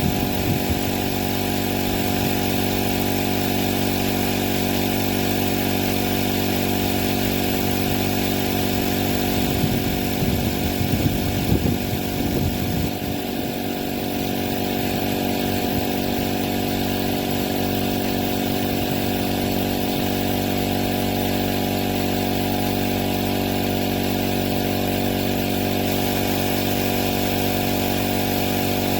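Artisan Tool AT-AP01b cordless air compressor running, its small motor-driven piston pump humming at a constant pitch. There is a louder, uneven stretch between about ten and thirteen seconds in.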